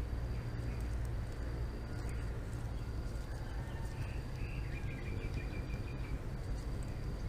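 Outdoor ambience: a steady low rumble, a short high insect-like tone repeating about once a second, and a faint run of bird chirps in the middle.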